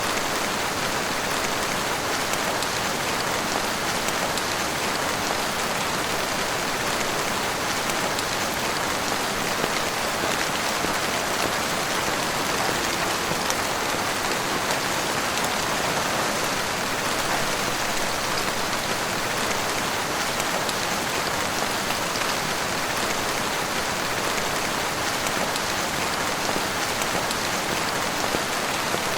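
Heavy rain falling steadily, a dense hiss of drops striking a surface without let-up.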